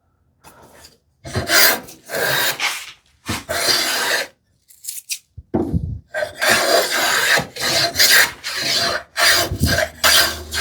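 Hand scrub plane taking repeated strokes along a narrow wooden board, hogging off waste stock down to a marked line; about eight shaving strokes, each under a second or so, with a short pause partway through.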